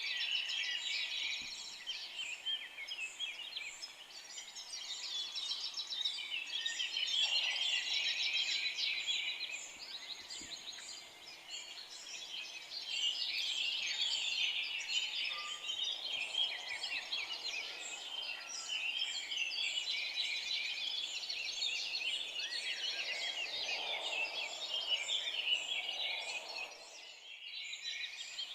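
Dawn-chorus-like mix of many songbirds singing and chirping at once, short high calls and trills overlapping continuously, with a brief drop-out near the end.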